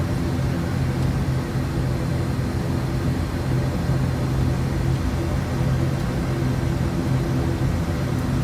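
ATR 72-600's twin turboprop engines running at a steady low power while the airliner taxis after landing: a constant drone made of several held low tones.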